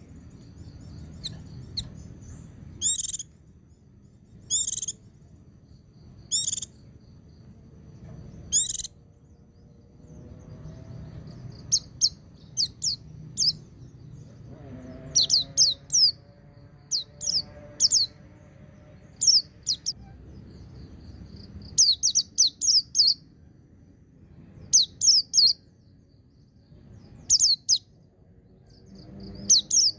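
White-eye (pleci) song: short, high, sharp chirps, single notes about two seconds apart at first, then quicker runs of several chirps from about twelve seconds in, over a faint low hum.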